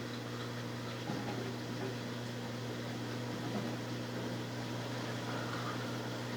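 Brastemp Ative 11 kg top-load washing machine at the start of its final spin, the drum turning slowly and the motor giving a steady hum.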